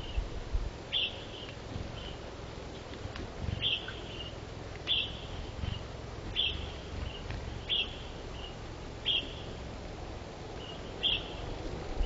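A bird repeating a short, sharp chirp every one to two seconds, each often followed by a fainter second note, over a low rumble of wind gusting on the microphone.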